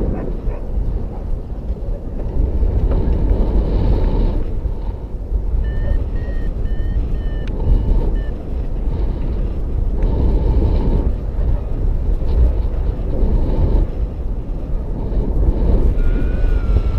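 Wind rushing over the microphone in flight under a paraglider. A paragliding variometer sounds a run of short, same-pitched beeps about six seconds in, its climb signal, and a steady tone that slowly rises in pitch near the end.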